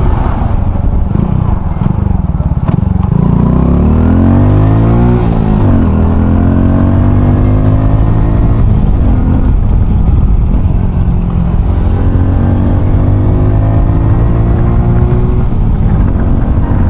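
Honda Cross Cub 110's single-cylinder four-stroke engine, through an aftermarket RPM Raptor muffler, under way: it revs up through a gear about three seconds in, drops in pitch at a shift around halfway, then runs at a steady cruise.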